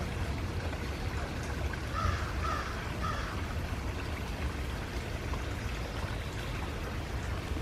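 A bird gives three short calls in quick succession about two seconds in, over a steady rushing background noise with a low rumble.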